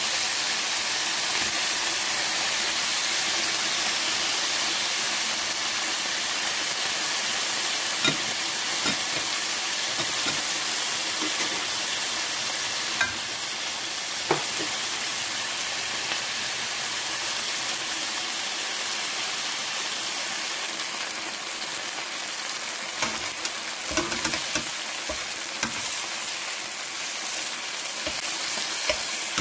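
Marinated chicken wings sizzling in hot oil in a stainless steel pan: a steady frying hiss. A few sharp clicks and taps are scattered through it, more of them in the last few seconds as a metal utensil turns the pieces.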